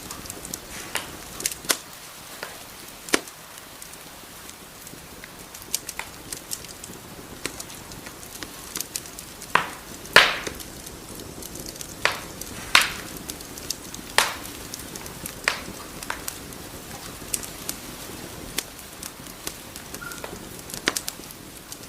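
Wood fire crackling: a steady soft hiss with irregular sharp pops and snaps of burning wood, the loudest pop about ten seconds in.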